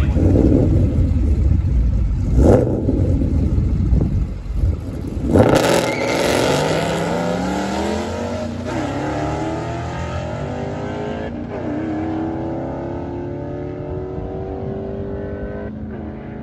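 Two drag-racing vehicles, a car and a pickup truck, rumbling loudly at the start line with a couple of sharp revs, then launching about five seconds in and accelerating away down the strip. The engine pitch climbs and drops back at gear shifts, about three times, and the sound slowly fades with distance.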